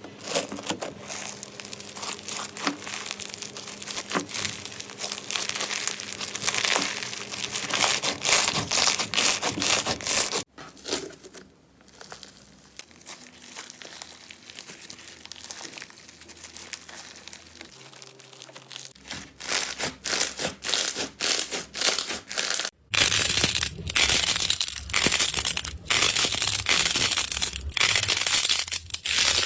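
Slime being squeezed and pressed by hand, making a dense crackling, crinkling run of small clicks. The sound changes abruptly about a third of the way in and again near the end as one slime clip gives way to another.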